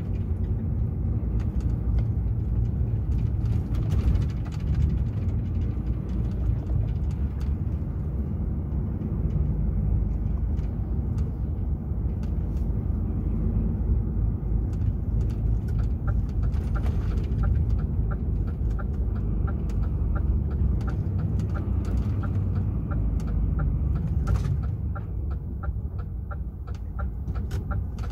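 The DAF XF 480 truck's diesel engine and cab noise make a steady low drone. About halfway through, a regular tick starts, about two to three a second, typical of the indicator relay clicking in the cab.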